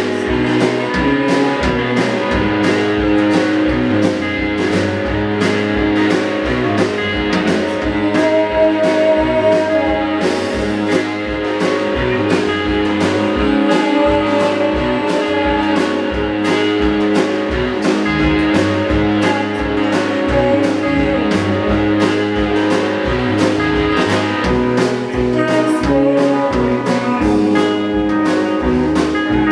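Blues band playing live: guitar over a steady drumbeat.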